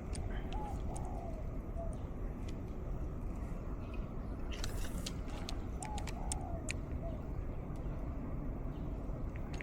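Wind rumbling steadily on the microphone, with a bird calling a short phrase twice, about five seconds apart. A cluster of sharp ticks and a brief hiss come in the middle.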